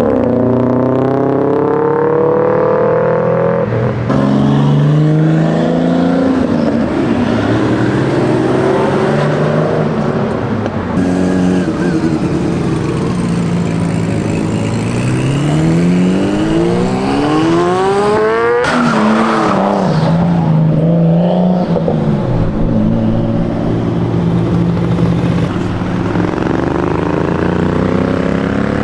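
Modified car engines revving and accelerating, their pitch climbing and falling again and again as cars pull away and pass. Several engines overlap, with a sudden change about two-thirds of the way through.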